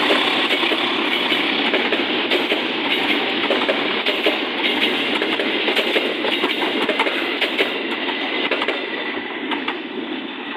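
Train passing close by: a steady rumble of wheels on rails with sharp clicks as the wheels cross rail joints, fading near the end.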